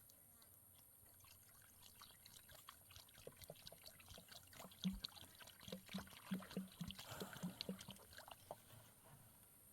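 Faint liquid pouring and trickling: irregular small splashes and clicks that thicken and grow louder in the middle, then fade.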